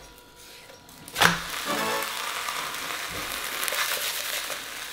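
A jianbing crepe flipped in a hot frying pan: it lands suddenly about a second in, then the egg side sizzles steadily against the pan. Light background music plays along.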